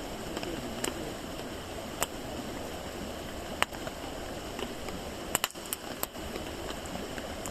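Wood campfire crackling: a steady hiss with sharp pops scattered through it, including a quick run of three pops about five and a half seconds in.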